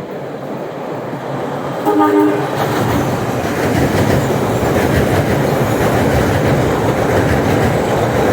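MBTA Orange Line subway train running over the track, a loud steady rumble with rattling wheel noise that swells up about two and a half seconds in. Just before it, about two seconds in, comes a short horn blast.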